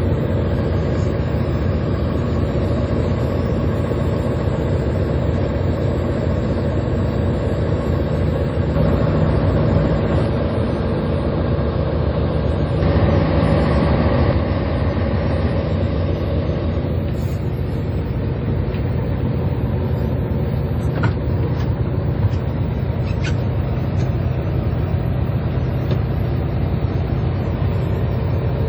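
A fishing boat's engine running steadily, heard on board, with a brief louder stretch a little before the middle.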